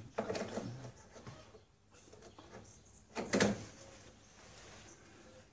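Handling noises at a workbench: a brief rustle and scrape just after the start, then one sharp knock or clatter a little over three seconds in, like a part or tool being set down.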